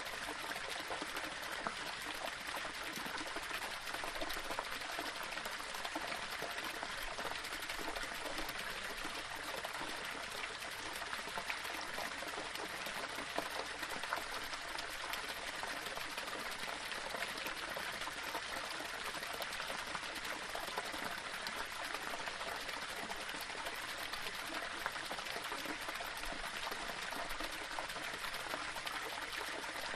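Small waterfall splashing and trickling over stones, a steady rushing of water.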